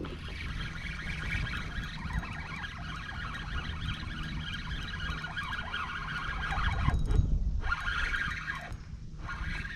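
Fishing reel being cranked steadily while a hooked smallmouth bass is brought in, a continuous wavering whir with two short pauses in the winding near the end.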